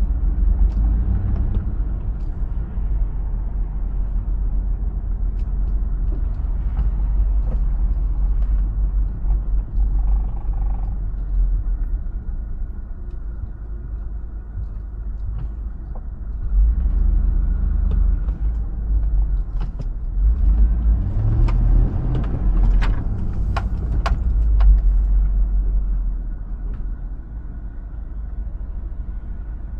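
2005 Hummer H2's 6.0-litre V8 running with road rumble while driving, a heavy low rumble that swells at about 16 seconds in and again at about 21 seconds. A few sharp clicks sound near the louder stretch.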